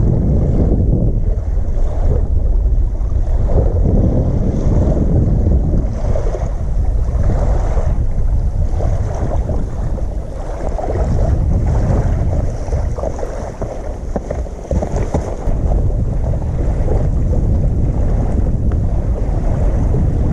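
Wind buffeting the microphone, a loud low rumble that rises and falls in gusts.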